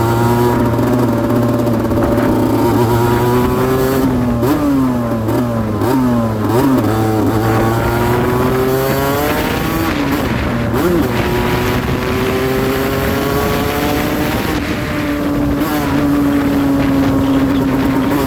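Aprilia RS125's single-cylinder two-stroke engine revving: its pitch climbs slowly, swings quickly up and down several times a few seconds in, climbs again, and settles on a steady higher note near the end.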